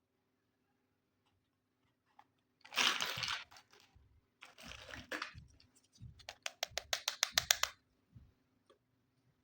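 Hands handling miniature plastic toy kitchen pieces and their packaging. There are two bursts of crinkling, about three and five seconds in, then a fast run of about ten sharp clicks, with soft knocks between.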